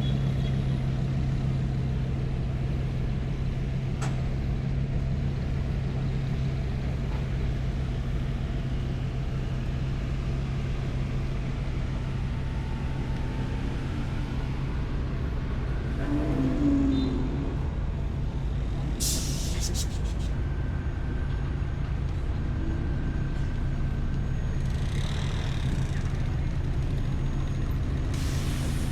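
A vehicle engine running steadily, a constant low hum. Faint voices come through briefly a few times.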